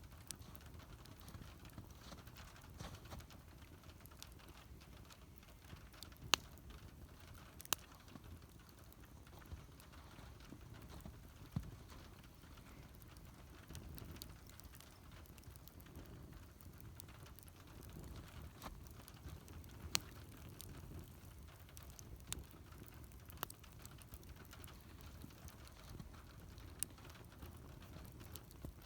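Wood fire crackling: sharp pops and snaps at irregular intervals, the loudest about six, eight and twenty seconds in, over a low steady rumble of the burning fire.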